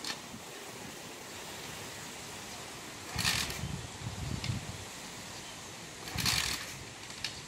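Apollo DB007 125cc dirt bike being kick-started twice, about three seconds apart: each kick turns the engine over briefly without it catching, because the kill switch is still off. Steady road noise runs underneath.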